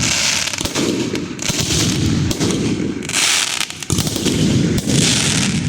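Fireworks going off: a dense, continuous crackle of rapid pops, with a bright hiss rising over it about every one and a half seconds.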